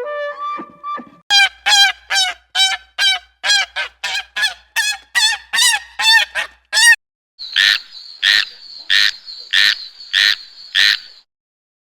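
A bird honking: a rapid series of about a dozen goose-like honks, then six harsher, higher-pitched calls about two-thirds of a second apart.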